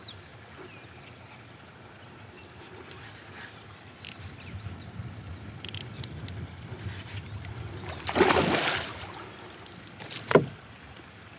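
Water splashing for about a second, followed a couple of seconds later by a single sharp knock, over quiet river background with small birds chirping in short descending runs.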